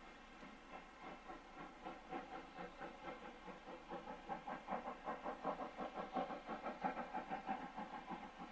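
Railway locomotive working, with a rhythmic beat of about four to five pulses a second that grows louder and is loudest about seven seconds in.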